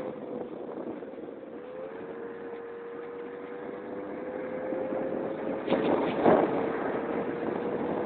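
Keeway Hurricane scooter's engine running under way, its steady note dipping briefly and then rising slowly as it gathers speed, with wind noise on the microphone. A few short, loud rough knocks or gusts come about six seconds in.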